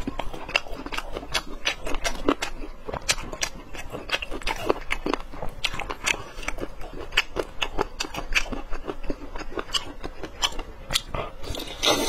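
Close-miked chewing and biting of boneless chicken feet, a continuous run of many small wet mouth clicks.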